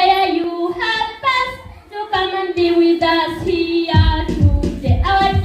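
Children singing a song together in unison, with held, gliding notes; a low, regular beat comes in about four seconds in.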